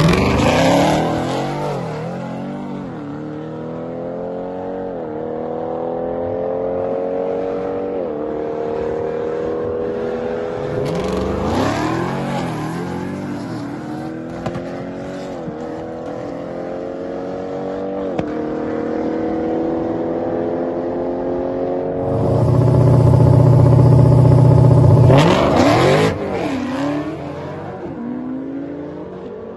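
Dodge Hellcat's supercharged 6.2-litre Hemi V8 accelerating hard through the gears: the engine note climbs and drops sharply at each upshift, every two to three seconds. The pattern starts over about 11 s in and again about 25 s in.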